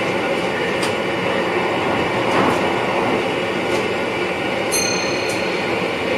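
NS VIRM double-deck electric train running at speed, heard inside the driver's cab as a steady rolling and running noise. A few light clicks come through, and a brief high squeal or tone rings out about three-quarters of the way through.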